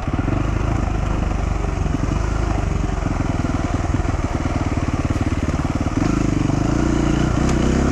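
Dual-sport motorcycle engine running while riding. The engine note changes about three seconds in and gets louder about six seconds in.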